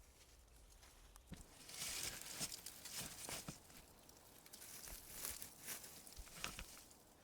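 Dry leaves and twigs rustling and crackling in two bursts, with scattered small snaps.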